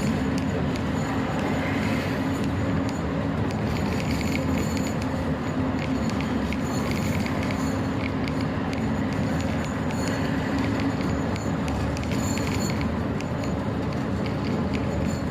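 Truck running steadily, a continuous engine and road rumble with a low hum and many light rattling ticks.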